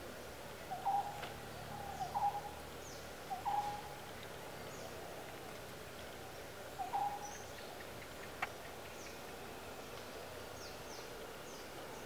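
Birds calling against steady natural background noise. Four short, mid-pitched calls, each with a quick upward note, come in the first seven seconds, with faint high chirps throughout and a single sharp click a little over eight seconds in.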